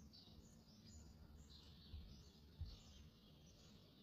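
Near silence: faint, repeated high bird chirps over a low hum, with a soft bump about two and a half seconds in.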